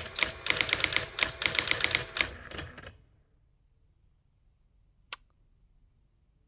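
Brother AX-20 daisywheel electronic typewriter printing characters sent to it by a computer: a fast run of sharp strikes that stops about three seconds in. A single sharp click follows about two seconds later.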